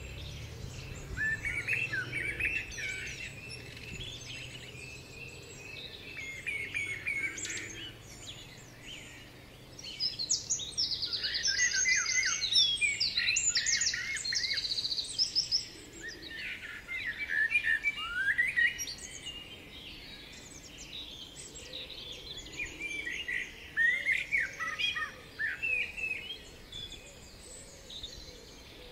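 Songbirds singing in short, varied chirping phrases throughout, with a loud stretch of rapid, high repeated notes in the middle.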